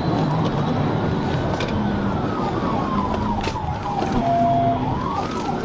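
Police car siren on a slow wail, rising, falling over a couple of seconds and rising again, over steady engine and road noise.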